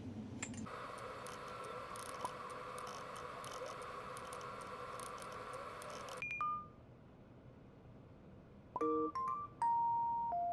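A steady hiss with scattered faint clicks for about six seconds, which cuts off abruptly. Two short electronic beeps follow; then, near the end, a quick run of clean, pitched electronic chime notes like a ringtone or jingle.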